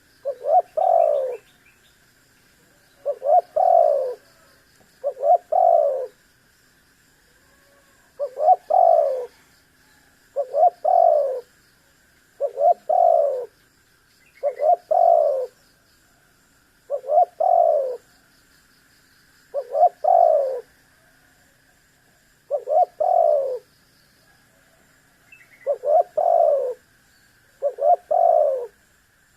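Spotted dove cooing over and over, about twelve phrases each roughly two seconds apart. Each phrase is a couple of quick short notes running into a longer falling coo.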